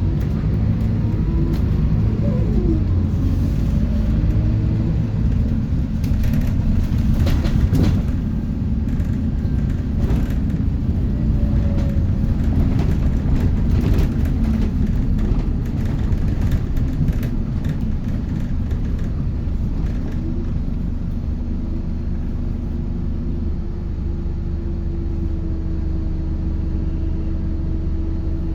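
Scania K230UB city bus in motion, heard from inside: the diesel engine's pitch rises and falls over a deep road rumble, with rattles from the body. After about twenty seconds it settles into a steadier, slightly quieter hum.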